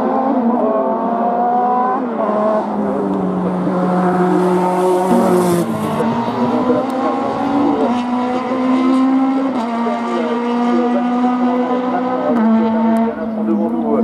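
Racing car's engine at full throttle on a hill climb, the revs climbing and dropping back at each gear change several times, with a brief burst of noise about halfway through.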